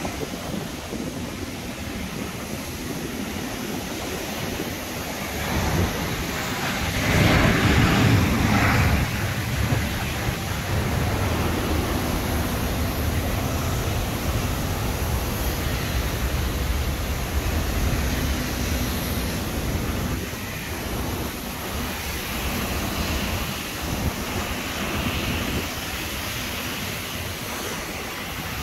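Steady outdoor rushing noise on an airfield ramp, growing louder for a few seconds about seven seconds in.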